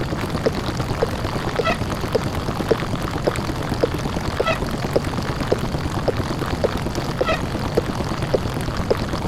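Distorted, 'deep-fried' microwave-oven hum sound effect: a loud, steady, buzzing drone. Over it come short blips about twice a second and a higher chirp every three seconds or so.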